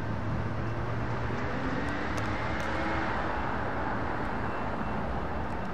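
Intermodal freight train rolling past, a steady rumble of wheels on rail that holds an even level throughout.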